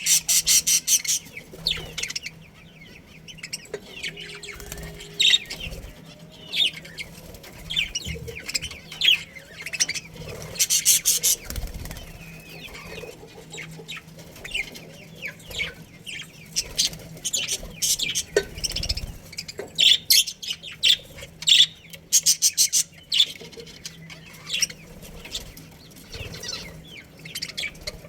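A colony of budgerigars chirping and chattering, with several bursts of rapid, dense chatter among scattered single chirps.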